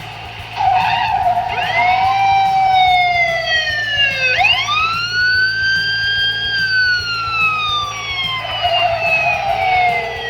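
Police car sirens wailing in slow, overlapping rise-and-fall sweeps, with car noise and background music beneath.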